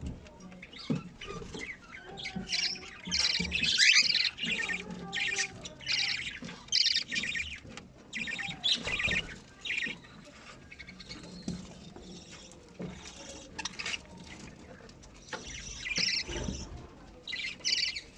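Budgerigars chirping in short, rapid bursts of high, scratchy calls, quieter for a few seconds after the middle.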